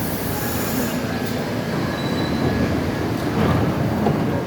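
R68 subway train running on the track with a steady rumble, with faint wheel squeal.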